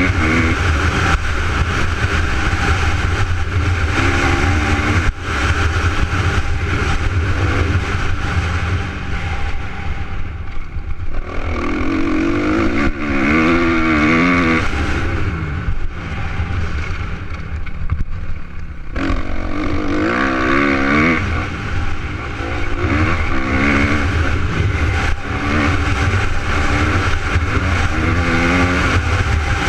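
Suzuki RM250 two-stroke motocross bike riding, its engine revving up and down repeatedly as the throttle is opened and closed, with two short lulls about a third and two thirds of the way through.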